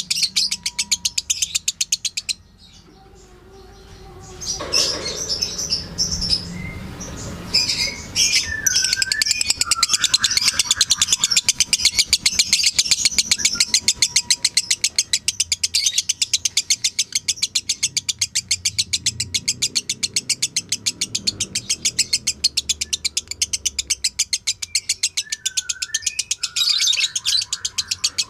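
Lovebird singing a long, fast chattering trill of high chirps repeated many times a second, the 'ngekek' song. It breaks off about two seconds in and starts again a couple of seconds later.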